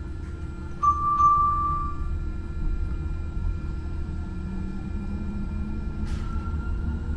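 Muni Metro light-rail car's bell struck twice about a second in, a single bright tone ringing on briefly, over the train's steady low rumble. Near the end a rising whine begins as the car's motors pick up.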